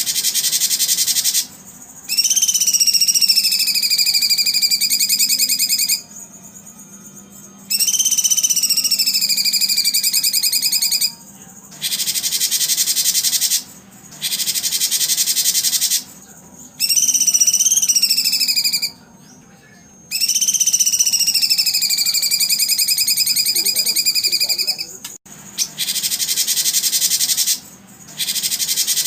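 Recorded bird and insect calls used to train songbirds: a loud, high, dense buzzing that comes in bursts of a few seconds with short gaps. Over about four of the bursts a long, clear whistle drops in pitch and then holds steady.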